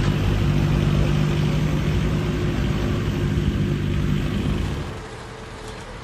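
Engine-driven log-peeling machinery running steadily: a low engine drone with a rough mechanical noise over it, which drops to a lower level about five seconds in.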